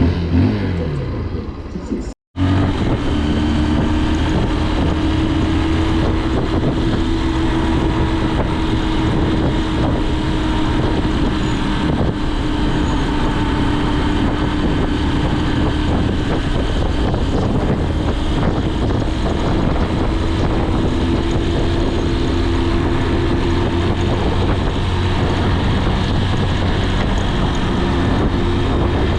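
Honda CRF150L's single-cylinder engine revving up and down for the first two seconds. After a momentary break, it runs at a steady cruising pitch under a constant haze of wind and road noise.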